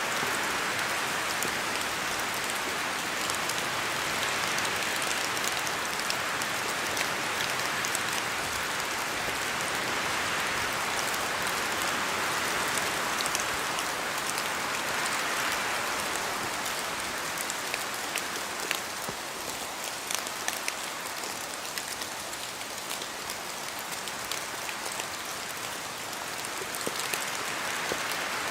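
Steady rain falling in a forest, with many drops pattering and dripping from the trees. The rush swells and eases in slow waves and is a little softer for a stretch in the second half.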